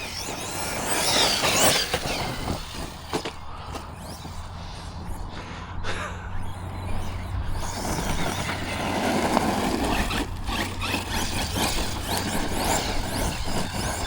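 Arrma Notorious 6S RC monster truck on a full-throttle power run, its Surpass 1780 brushless motor whining up in pitch about a second in, then running on with rough, noisy driving that gets louder near the middle.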